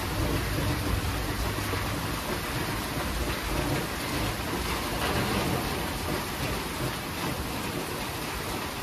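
Steady heavy rain falling, with low rolling thunder rumbling underneath that fades over the last few seconds.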